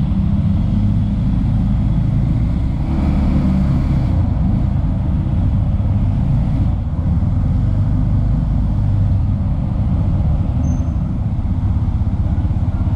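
Motor vehicle engines running steadily at close range: a loud, continuous low rumble.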